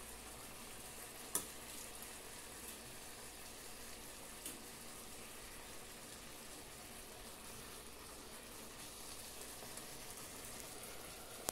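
Chicken breasts frying in oil in a pan, a faint steady sizzle. Two short sharp clicks, about a second and a half in and again about four and a half seconds in.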